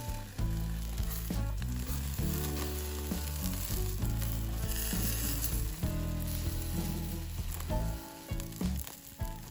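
Background music with a steady sizzling hiss of food frying underneath.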